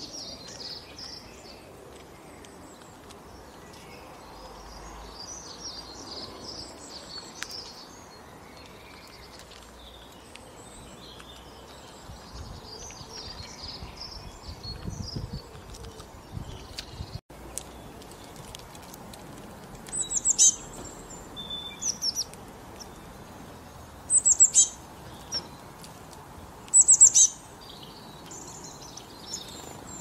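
Small songbirds chirping and twittering outdoors, with three short series of loud, high chirps in the second half.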